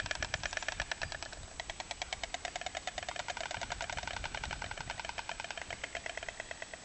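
Stork clattering its bill: a fast, even rattle of wooden-sounding clacks, about a dozen a second.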